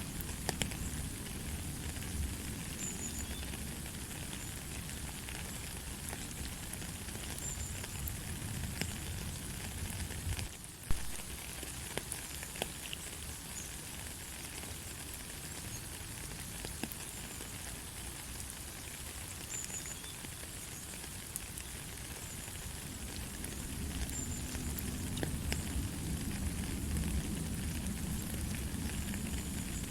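Steady light rain with no thunder: an even hiss of rainfall with scattered ticks of individual drops. About a third of the way in the sound dips for a moment and one sharper tick stands out.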